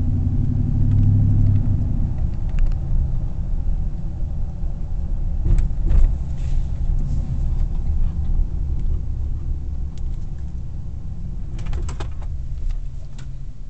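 Nissan Titan's 5.6-litre V8 idling through a Magnaflow true-dual, straight-piped exhaust: a steady low rumble, with a few short clicks about halfway through and near the end.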